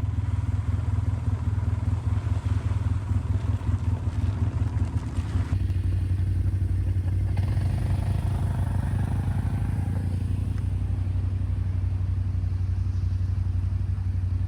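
Quad (ATV) engine running steadily while riding, a loud low drone; the sound changes character about five seconds in.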